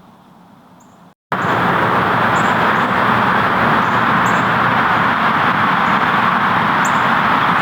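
Steady, even rush of road traffic noise that starts abruptly about a second in, with a few faint high chirps over it.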